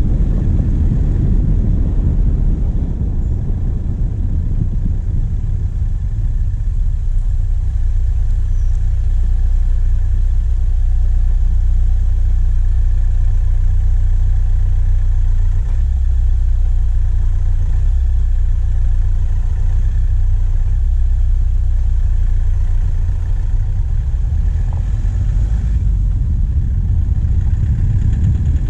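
Diesel engine of a vehicle driving on a forest track, heard from a bonnet-mounted camera: a steady low rumble of engine and road noise.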